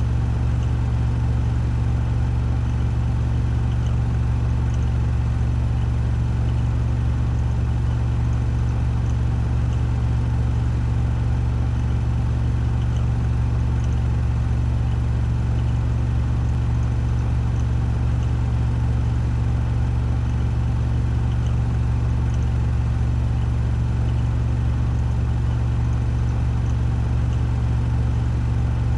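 Washing machine drum spinning at 1400 rpm on its spin cycle: a steady, unchanging low drone and hum.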